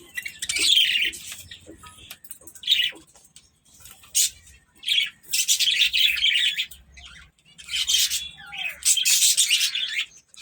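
Budgerigars and other small parrots in an aviary chattering and squawking in harsh bursts of about a second each, again and again.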